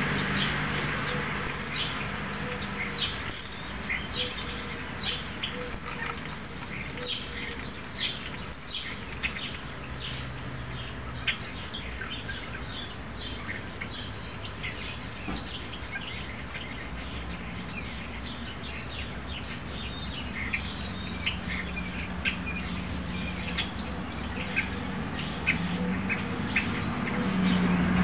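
Birds chirping outdoors, many short high calls throughout, over a low drone that fades over the first few seconds and builds again near the end.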